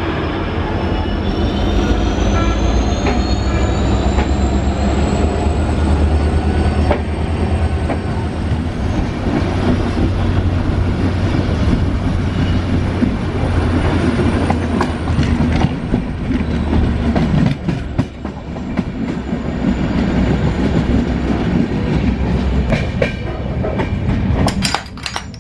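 Passenger train coach running at speed: a steady heavy rumble of wheels on track with clatter over the rails. A thin high whine slowly rises and falls above it.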